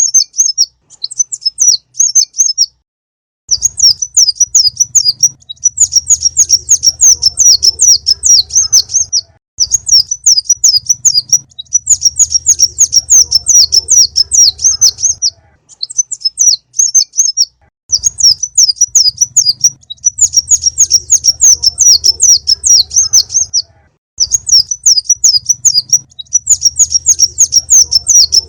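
Konin bird-lure recording: a small bird's rapid, high chittering song in bursts of a few seconds with short gaps, repeating in the same pattern like a loop. A faint low hum sounds under each burst.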